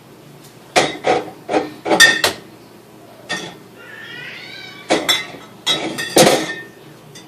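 Beer being loaded into a refrigerator: about ten sharp clinks and knocks in irregular clusters as the containers are set down on the shelves and against each other. A brief high warbling sound comes about four seconds in.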